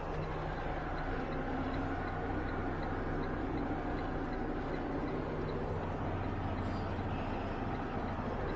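Semi truck's diesel engine running steadily at a low, even pitch, with a faint quick ticking about three times a second.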